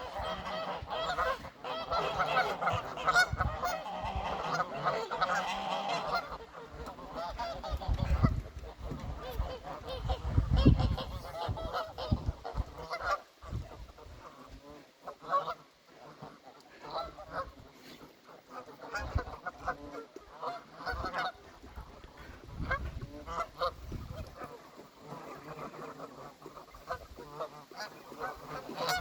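A flock of geese honking. Many overlapping calls come in a thick burst over the first six seconds, then thin out to scattered honks, with a few low rumbles in between.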